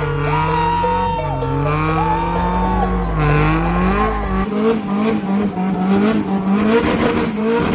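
Car engine revving hard with tyres squealing and sliding, as in a burnout or drift. In the second half the revs pulse up and down a couple of times a second.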